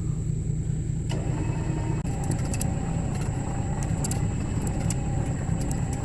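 An engine running steadily with a low rumble. About a second in, a steady mechanical whine starts up over it, with scattered light ticking.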